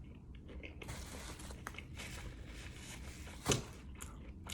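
Close, crinkling and crunching sounds of eating takeout food, with one sharp click about three and a half seconds in and a smaller one near the end.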